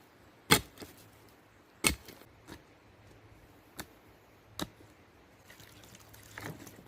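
Pickaxe striking into the ground while a hole is dug out: two hard strikes in the first two seconds, then a few lighter knocks spaced out after them.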